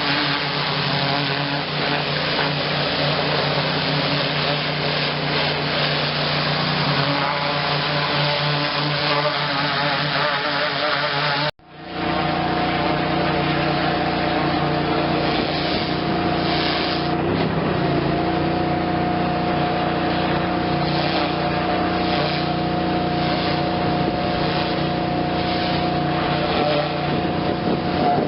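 A high-pressure power washer running steadily, with engine drone under water spray. The sound cuts out abruptly for a moment about twelve seconds in, then resumes with a slightly different pitch.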